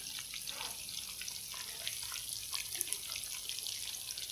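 Whole blocks of tofu deep-frying in a pan of hot oil: a steady sizzle with many small scattered crackles and pops.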